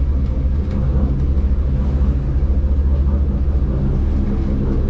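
Dutch barge's inboard diesel engine running steadily under added throttle, a deep low drone.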